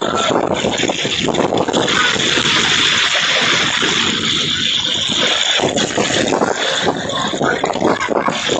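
Heavy rain pouring down steadily, loud, with splashing and running water.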